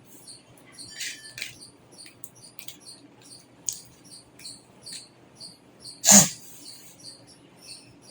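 A cricket chirping steadily, about two to three short chirps a second. Scattered clicks and rustles of handling come through, with one loud knock about six seconds in.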